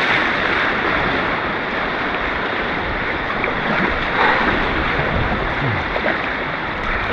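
Rushing white water on an artificial white-water course, a loud, steady roar of turbulent flow with a brief louder swell about four seconds in.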